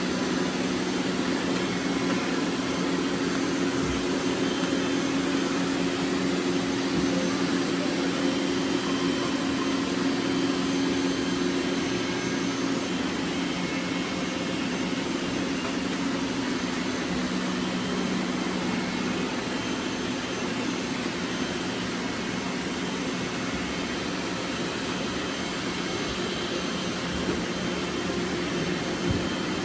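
Robot vacuums running: a steady whir of suction fans and brush motors.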